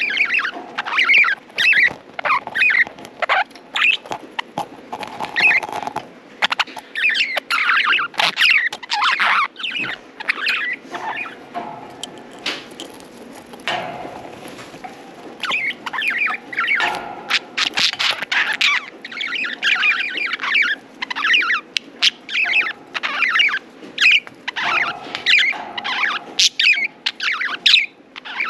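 Several budgerigars chattering with quick, short chirps in a dense, busy stream, mixed with small sharp clicks, with a brief quieter lull about halfway through.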